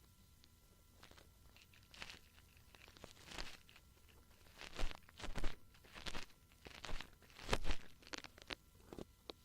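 Ear-cleaning tool scraping and rubbing close up against the microphone for ear-cleaning ASMR: a run of irregular crunchy scratches, loudest in the middle and thinning out near the end.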